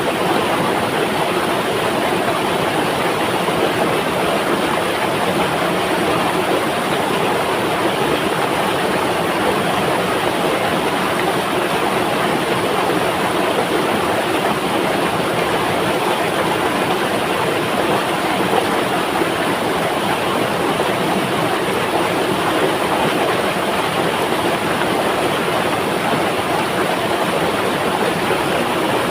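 Flowing river water: a steady, unbroken rushing.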